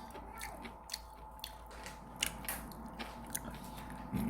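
A person chewing and biting food, with scattered short crunchy clicks.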